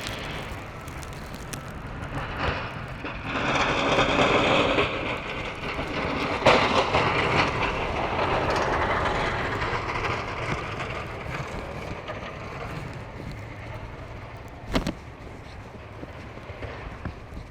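A vehicle passing close by, its noise swelling over a few seconds and then fading away; a single sharp click near the end.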